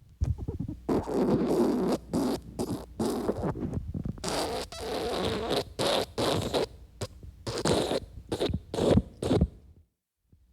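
A cartoon sound effect made of a rapid series of irregular rasping, sputtering bursts of different lengths, some short and some drawn out, in the manner of comic fart noises.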